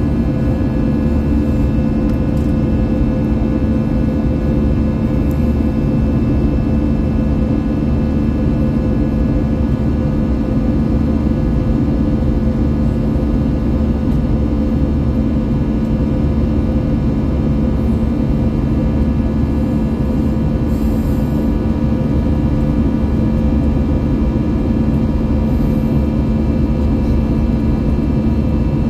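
Airbus A321-200 jet engines and airflow heard from inside the passenger cabin: a steady, loud drone with several steady tones over a low rumble, unchanging in level.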